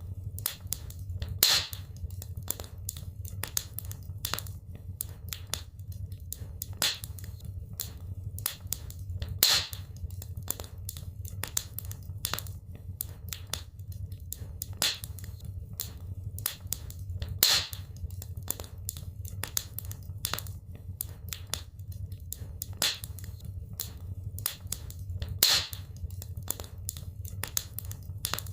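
Wood fire crackling in a fireplace: a steady stream of small sharp snaps and pops over a low steady rumble, with a louder pop about every eight seconds.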